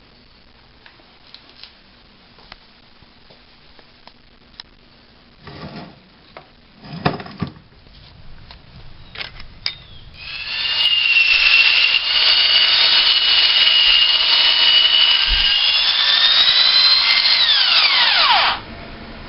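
A power tool runs for about eight seconds with a steady high whine. The whine rises near the end, then falls in pitch as the motor winds down after being switched off. Before it starts there are a few light clicks and short rustles.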